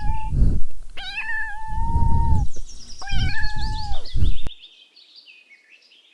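Kitten meowing: three high-pitched meows, the middle one the longest, over low rumbling background noise. The sound cuts off sharply after about four and a half seconds, leaving faint high chirping.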